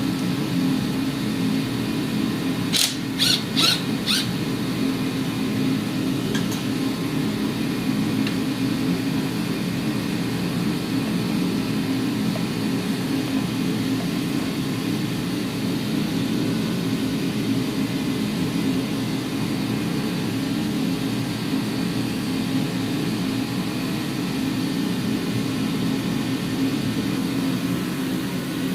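A steady low mechanical hum with four quick sharp clicks about three seconds in.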